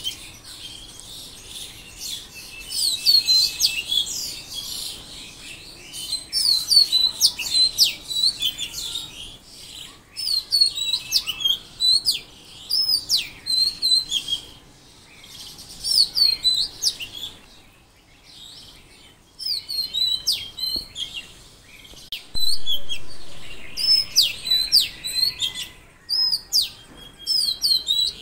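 Songbirds chirping and singing in bursts of short, quick notes that rise and fall, with brief lulls between the bursts.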